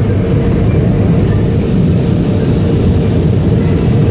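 Automatic car wash blowers drying the car, heard from inside the cabin: a loud, steady rushing of air with a low hum and a faint steady tone, "really loud", like being in an airplane.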